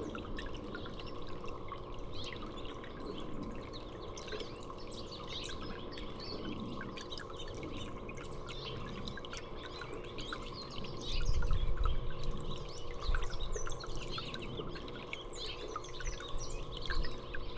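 Many small birds chirping and calling in quick short notes over a steady trickle of water. A low rumble comes in about eleven seconds in.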